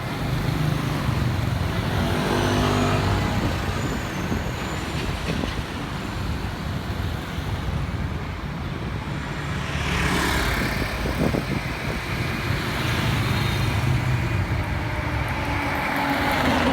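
Road traffic: vehicle engines running with a constant low rumble, and several vehicles passing close by, swelling louder a few times before fading.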